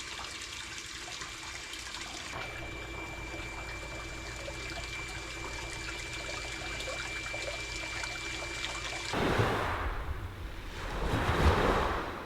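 Water trickling steadily. About nine seconds in the sound cuts to sea waves washing onto the shore, two swells rising and falling.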